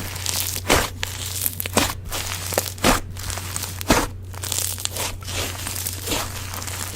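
Slime being pressed and squeezed by hand, crackling, with a sharp pop about once a second and a steady low hum underneath.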